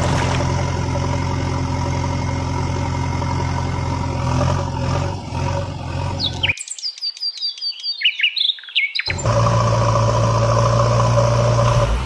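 A steady engine hum, of the sort dubbed onto toy-vehicle videos, cuts off abruptly about six seconds in. For about two and a half seconds only birds chirping are heard, then the engine hum starts again.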